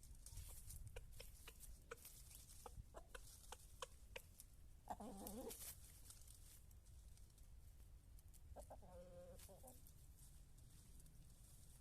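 Chickens clucking faintly: a string of short clucks, then two longer drawn-out calls, one about five seconds in and one about nine seconds in.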